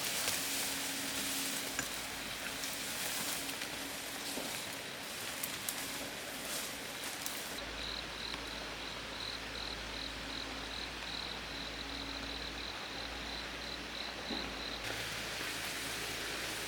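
Rain falling, a steady hiss with scattered drip clicks. Partway through, the sound cuts to a quieter hiss with a high chirp pulsing about twice a second, then cuts again near the end.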